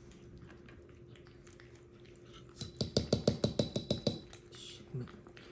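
A quick run of about a dozen light clinks in a second and a half, with a faint ring, over a steady low hum.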